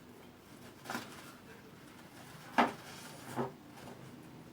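Three short knocks or taps of handling against quiet room tone, the second, about two and a half seconds in, the loudest.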